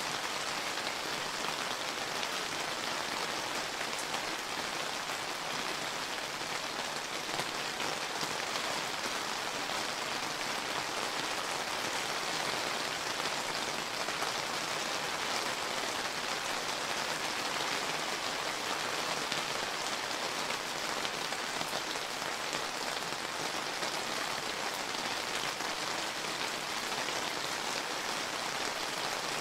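Steady summer rain falling, an even patter of drops on surfaces.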